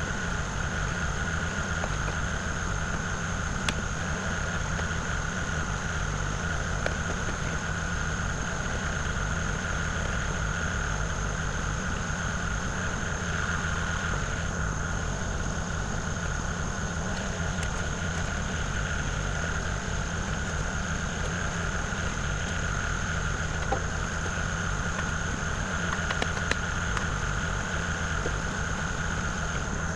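Kubota KX040 mini excavator's diesel engine running steadily, with a constant high whine above the engine hum.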